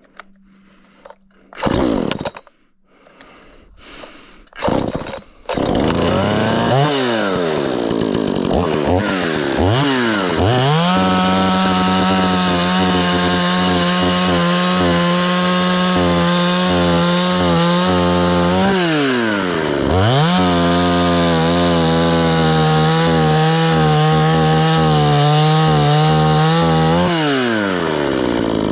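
XtremepowerUS 82cc two-stroke chainsaw: two short pull-start attempts, then it catches about five seconds in and revs up. It runs at high, steady revs through long cuts, with the revs dropping and climbing again twice between cuts.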